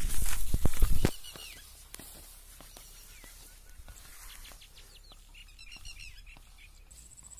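A loud rush of noise for about the first second, then birds calling outdoors: short chirping calls, with a run of repeated chirps about six seconds in, over faint scattered clicks.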